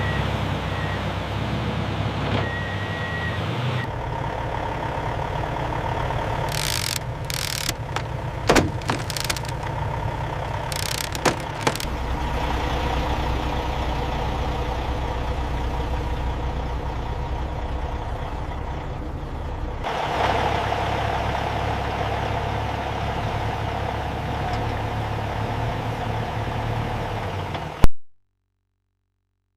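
Heavy logging machine's engine running steadily, with a handful of sharp cracks about a third of the way in. The sound cuts off abruptly near the end.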